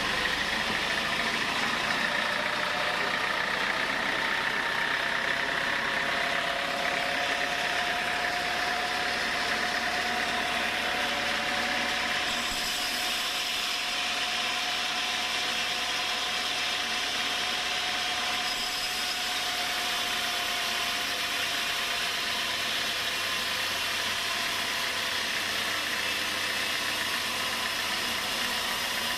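Sawmill running steadily: a continuous machine noise with a faint whining tone through the middle.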